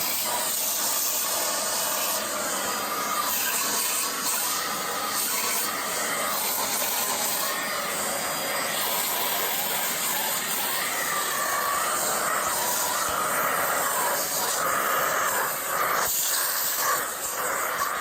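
Miele Blizzard CX1 bagless cylinder vacuum cleaner running with the dusting brush attached, its suction making a steady loud rushing hiss whose tone shifts as the nozzle moves over surfaces and the airflow changes.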